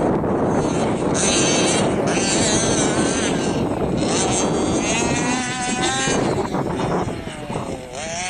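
Baja Bug's engine running hard under load, with wind buffeting the microphone; about five seconds in, the engine note wavers up and down, then falls away near the end as the throttle eases.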